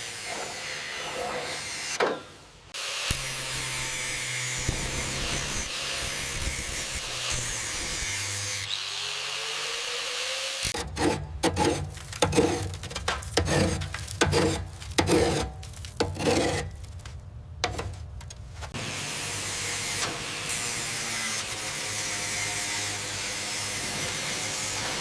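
Heavy rust being scraped off a tank's steel housing. The scraping is steady for most of the time, with a rising whine just before the middle, then a stretch of separate strokes, about one or two a second.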